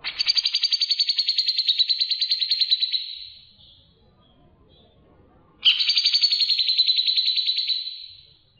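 A songbird gives two long, rapid, pulsing trills of about three seconds each. The second starts a couple of seconds after the first ends.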